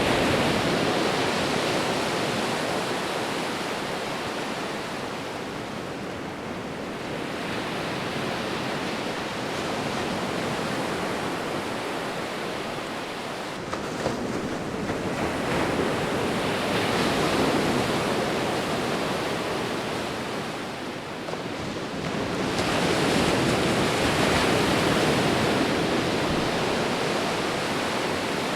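Sea waves breaking and washing ashore: a continuous rushing surf that swells and eases, with four slow surges several seconds apart.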